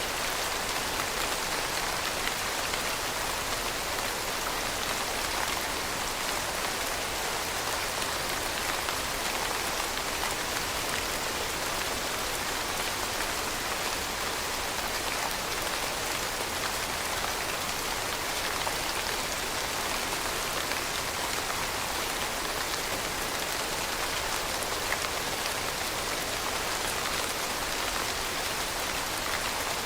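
Steady rain falling on a surface, an even hiss of many drops with no change in strength.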